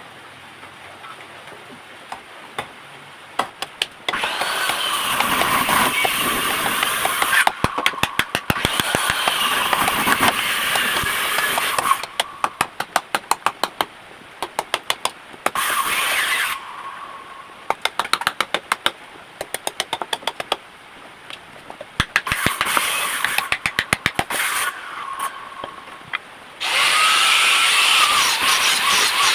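Hand-held electric power tool shaping a wooden knife handle, running in several bursts with a steady whine, with rapid clicking and knocking between the bursts.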